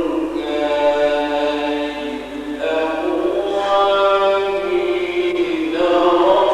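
Solo male voice in melodic Quranic recitation (tajweed), unaccompanied, drawing out long held notes that glide slowly in pitch, with a brief drop in level about two seconds in.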